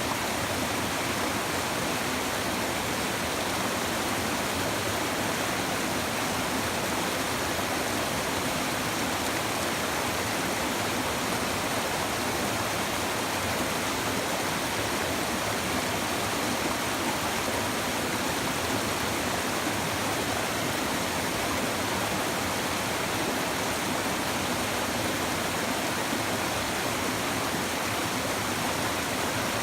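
A river's shallow stream babbling and rushing over stones, a steady, even flow of water.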